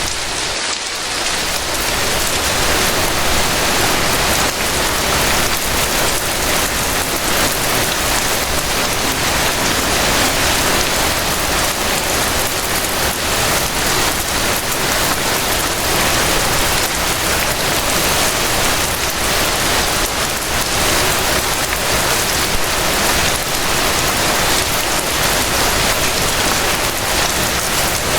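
Steady gentle rain: a dense, even hiss of many drops falling on surfaces, briefly a little softer about a second in.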